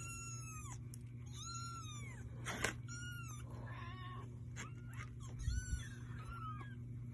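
Young kittens mewing: repeated high, thin cries that rise and fall, about one every second or so, some overlapping. There is a short knock about two and a half seconds in.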